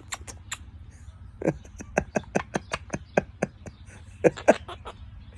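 Laughter in a quick run of short, sharp pulses, about five a second: a Quaker parrot mimicking its owner's laugh.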